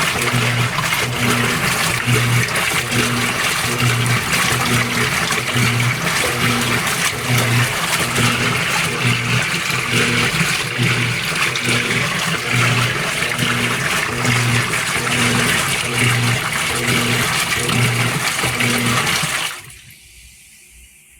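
GE Spacemaker top-load washer agitating its rinse water: water sloshing, with the motor's low hum pulsing about once a second. The agitation stops abruptly near the end as the rinse finishes.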